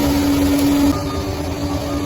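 Bulldozer's diesel engine running steadily with a loud held whine over a low rumble; the sound drops suddenly a little before halfway through and carries on more quietly.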